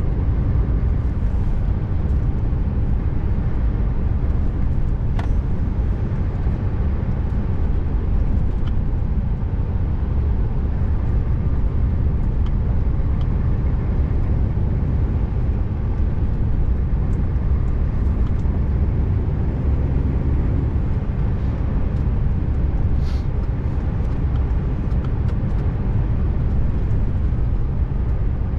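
Scania R590 truck's V8 diesel engine running steadily at cruise, a deep even rumble under road and tyre noise, with a few faint clicks.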